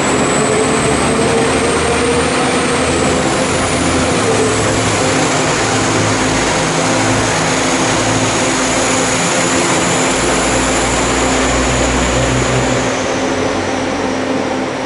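Northern multiple-unit train running past along the platform: a loud, steady rumble of wheels on rails with a steady hum and a thin high whine that drops a little in pitch near the end.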